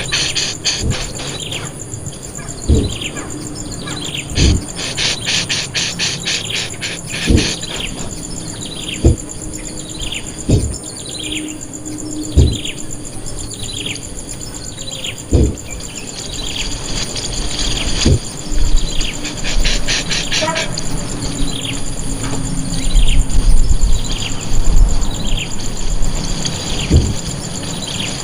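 Wild bird repeating a short call note that falls in pitch, about once a second, mixed with bursts of fast insect-like trilling. Scattered low thumps and a low rumble near the end.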